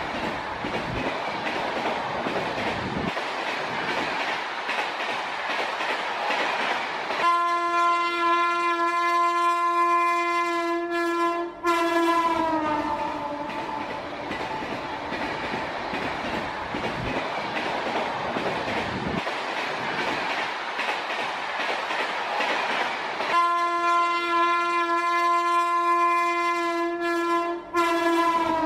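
A train running on the rails with a steady rumble and clatter of wheels, and a horn sounding two long single-note blasts of about four seconds each, the pitch sliding down as each blast ends.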